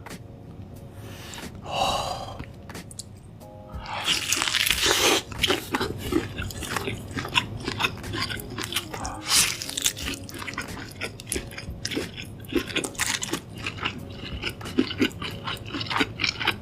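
Close-miked biting and chewing of a pork tomahawk chop: a loud crunching bite about four seconds in, then chewing with many small crunches and clicks.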